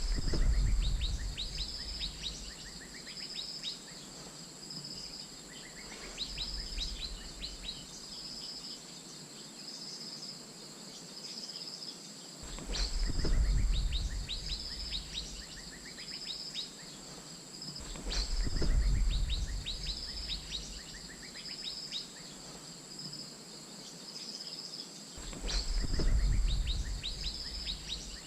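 Asian fairy-bluebird calls, used as a lure call: repeated short high whistles and runs of quick descending notes, over a steady high insect-like hum. A low rumble swells up four times.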